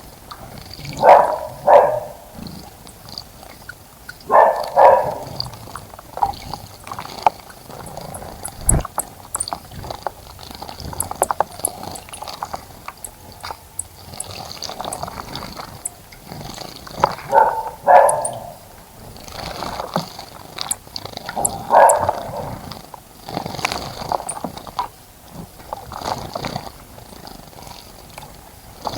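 Small birds bathing in a bird bath: repeated bouts of fluttering splashes as they beat their wings in the water, each about a second long, with short, very high chirps scattered between them.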